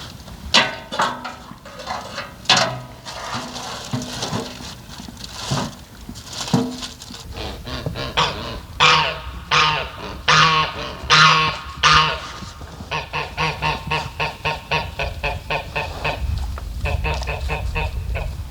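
Geese honking, many calls one after another, breaking into a fast run of short, repeated calls over the last few seconds.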